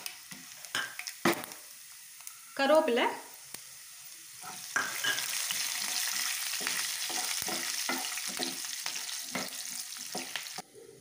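Cashews, black pepper and cumin frying in hot ghee and oil in a pan, with a spoon scraping and stirring through them. About halfway through, curry leaves go into the hot fat and the sizzle jumps much louder, with the spoon scraping over it in repeated strokes. The sizzle cuts off suddenly near the end.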